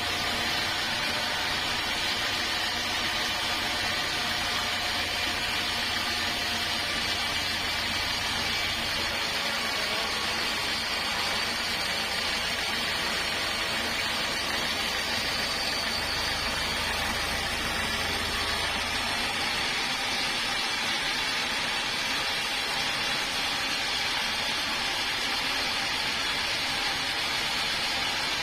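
Sawmill saw running steadily through a large log. A low hum underneath drops away about two-thirds of the way through.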